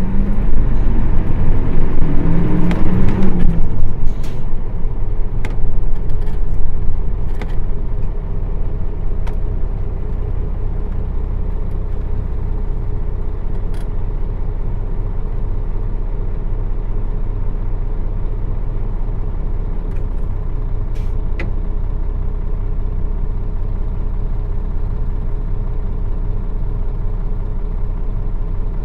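City bus's Nissan Diesel PF6 diesel engine heard from inside the cabin: louder and changing for the first few seconds, then settling into a steady idle hum. A few faint sharp clicks come through now and then.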